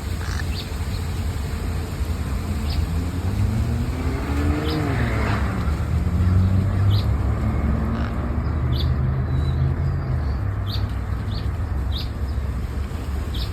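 A motor vehicle's engine passing, its pitch rising and then dropping about four to five seconds in, over a steady low rumble. Short high bird chirps come every second or so.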